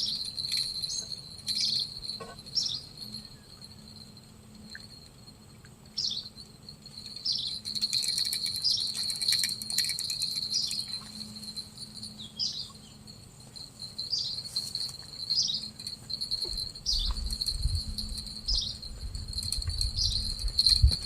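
Insects droning steadily on one high note, with short repeated chirping calls over it, roughly one a second. A low rumble comes in over the last few seconds.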